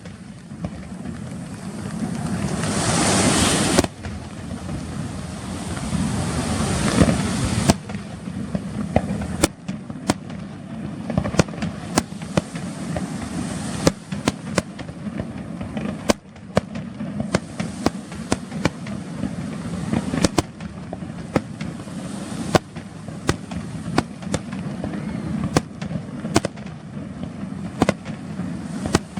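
Aerial fireworks going off: a hissing swell in the first few seconds, then a long run of sharp bangs and cracks, several a second at uneven intervals.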